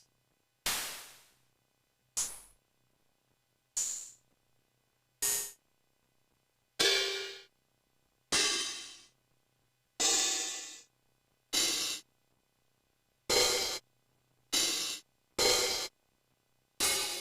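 MFB-501 Pro drum machine playing its stored samples one at a time, about a dozen single hits spaced roughly a second and a half apart, closer together near the end. Most are bright, hissy cymbal and hi-hat sounds that die away within a second; a few have a ringing tone under them.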